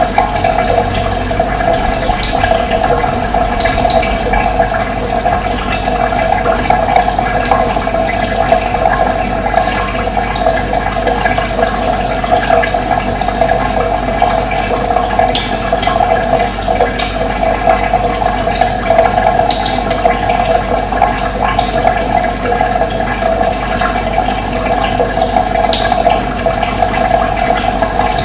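Running water flowing steadily, with occasional short bird chirps over it.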